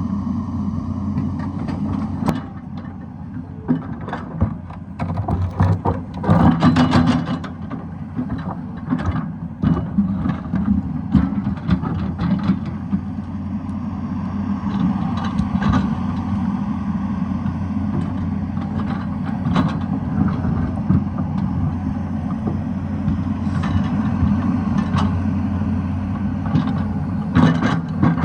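Excavator's diesel engine running steadily, with frequent sharp clanks and knocks of the working machine and rock, and a louder stretch of clattering about six to seven seconds in.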